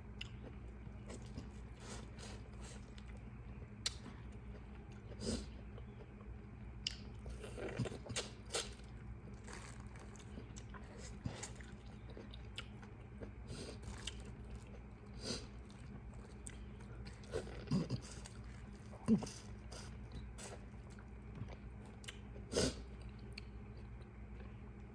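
Mukbang eating sounds of a seafood boil: chewing and biting close to the microphone, with many short, scattered clicks and a few louder ones, over a steady low hum.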